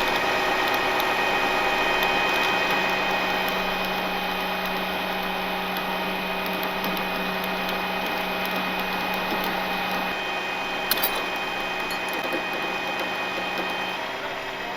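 Rollback tow truck's winch and hydraulics whining steadily as a dump truck is pulled up onto the bed. The tone changes about ten seconds in, two sharp clicks come about a second later, and the whine eases off near the end.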